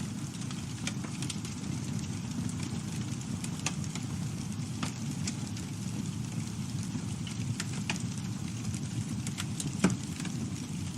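Campfire burning: a steady low rumble of flames with scattered crackles and pops, one louder pop near the end.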